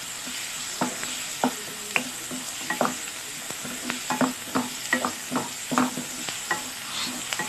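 Chopped onion and tomato sizzling in oil in a nonstick pan while a wooden spoon stirs them, with frequent short scrapes and taps of the spoon against the pan.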